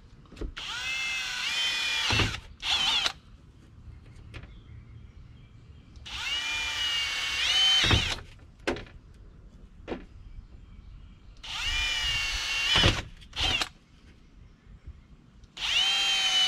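Cordless drill boring holes through PVC pipe: four runs of the motor's whine a few seconds apart, each lasting one to two seconds with the pitch climbing near its end, and a short extra burst just after the first.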